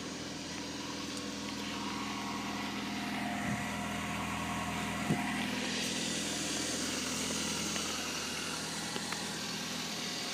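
1994 Saturn SL2's 1.9-litre four-cylinder engine idling steadily just after a cold start in freezing weather, with a couple of light knocks about three and a half and five seconds in.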